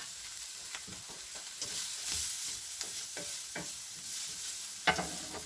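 Vegetables stir-frying in butter in a hot pan: a steady sizzle that grows louder about a second and a half in, with light taps and scrapes of the stirring utensil and one sharper knock near the end.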